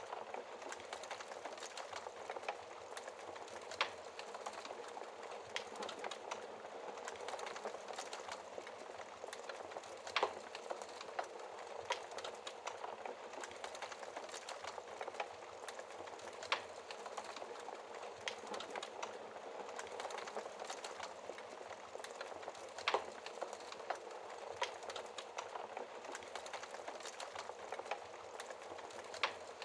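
Wood fire in a fireplace crackling steadily, a dense hiss of small ticks, with five louder sharp pops at regular intervals about six seconds apart.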